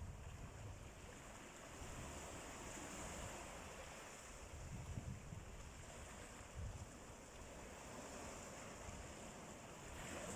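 Sea waves washing in steadily, with a few low bumps of wind buffeting the microphone.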